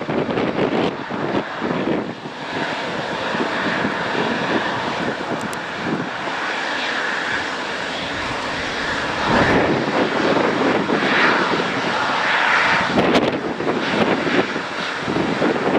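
Jet airliner's engines running as it passes: a steady, loud rush of engine noise that swells a couple of times.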